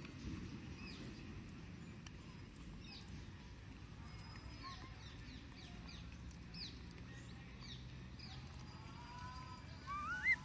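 Faint outdoor background with short, high bird chirps scattered through, followed near the end by a brief, louder rising call.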